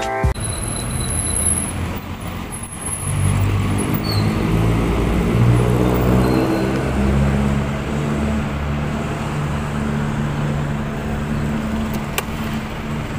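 Motorcycle engine pulling away and accelerating, its pitch rising over the first several seconds and then holding steady, under a constant rush of wind and road noise.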